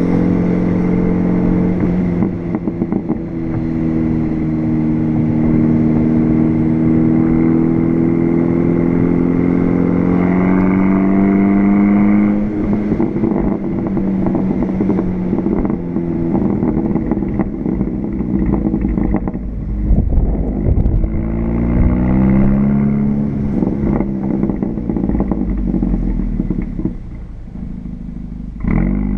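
Volkswagen GTI's turbocharged four-cylinder engine, breathing through an APR turbo-back exhaust and K04 turbo, under load. Its note climbs steadily for several seconds, then drops away sharply about twelve seconds in. It climbs again briefly later on and rises once more near the end.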